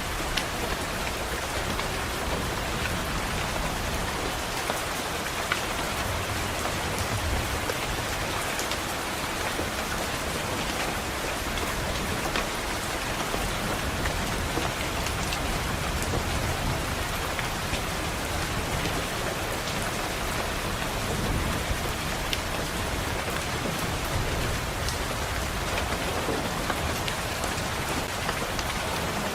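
Steady rain pattering on a window, with scattered sharp drop taps, and a low rumble of distant thunder swelling through the first half.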